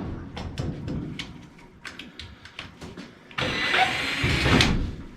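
Scattered light clicks and taps of tools working on furnace parts, then, about three and a half seconds in, a cordless power driver runs briefly for about a second.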